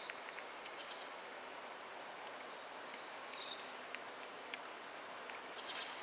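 Outdoor ambience: a steady background hiss with a few short, high bird chirps, one at the start, one about three and a half seconds in, and a quick cluster near the end.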